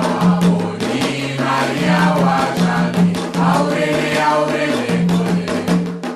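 Group chanting of a ritual song for Xangô, several voices together, over steady drum and percussion strikes.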